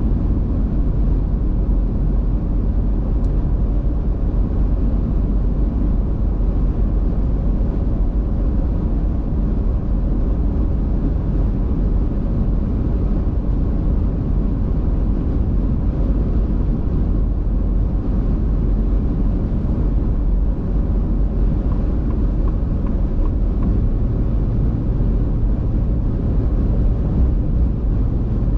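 Car driving, a steady low rumble of road and engine noise; a low hum gets stronger about 24 seconds in.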